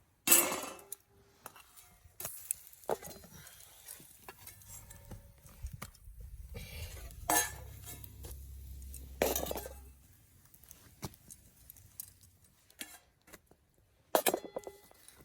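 Metal camp cookware and utensils clinking and knocking, a dozen or so separate knocks, the sharpest about half a second in and again around seven and nine seconds.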